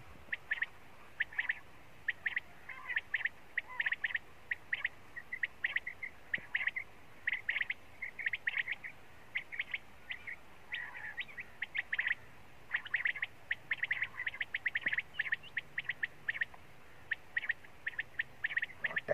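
Bird chirping: many short, high calls in quick, irregular runs, some tightly bunched.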